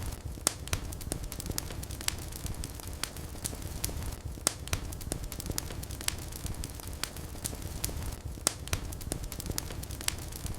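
Wood fire burning in a fireplace: a steady low rumble of flames with irregular crackles and occasional louder pops.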